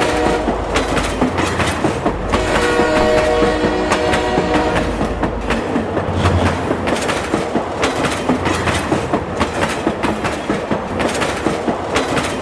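Train sounds: a horn blows briefly at the start and again for about two and a half seconds, over a steady rhythmic clickety-clack of wheels on rails that carries on alone for the second half.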